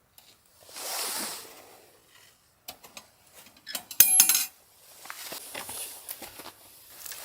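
Metal cookware and utensils handled: small knocks and rustling, with one loud metallic clink about four seconds in that rings briefly.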